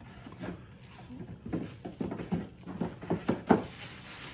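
Irregular run of light knocks and clicks as ceiling-fan light parts are handled and fitted together, with one sharper knock near the end.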